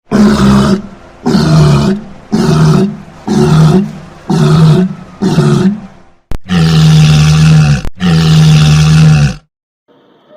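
An animal calling loudly: six short calls in quick succession, about one a second, then two longer, steady calls.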